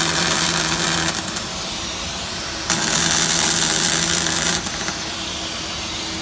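Robot welding arc hissing and crackling in two runs of about two seconds each, one ending about a second in and the next starting near the middle. Under them runs the steady rushing of the fume-extraction suction.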